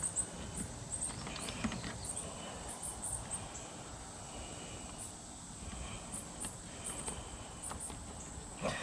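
Faint rustling and a few light knocks from wiring being handled and fed through the vehicle's interior trim. Small high chirps of crickets repeat in the background.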